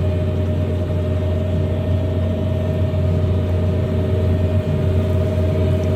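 Farm tractor engine running steadily while pulling through the field, a low drone with a steady whine above it.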